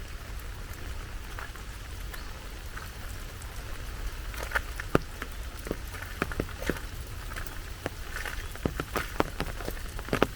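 Rain falling steadily, with sharp, irregular drop hits that come more often from about four seconds in.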